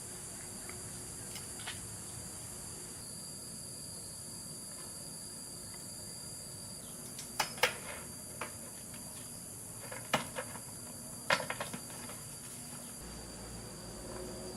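Insects, crickets or cicadas, droning in a steady high-pitched chorus. A few sharp clicks or snaps come about halfway through and again near the end.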